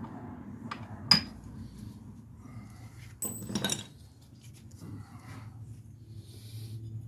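Metal hand tools clinking and clanking: one sharp ringing clink about a second in, then a short clatter of metal striking metal around the middle.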